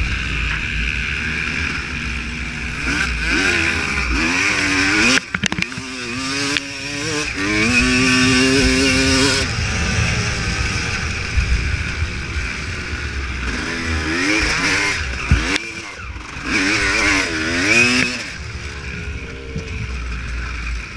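Honda CR250 two-stroke motocross engine being ridden, revving up and down again and again as the throttle opens and closes, with a short break about five seconds in.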